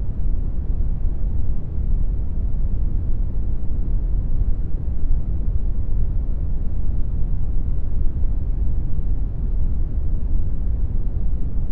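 Brown noise generated in Audacity: a steady, unchanging deep hiss, strongest in the low end and fading off toward the highs.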